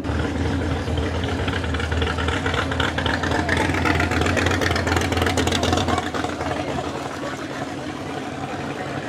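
A car engine running close by with a deep low drone, loudest about halfway through and easing off after about six seconds.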